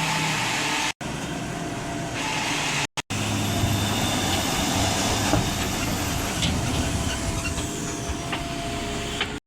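Backhoe loader's diesel engine running steadily under work, its sound broken by a few brief sudden drop-outs and cutting off abruptly near the end.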